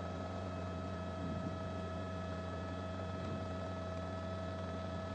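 A steady low hum with hiss and a few faint high steady tones, like the electrical background noise of a broadcast feed, with no distinct sound event.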